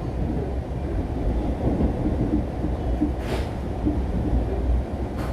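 Mugunghwa passenger train heard from inside the carriage at a station arrival: a steady low rumble, with a short hiss about three seconds in and another near the end.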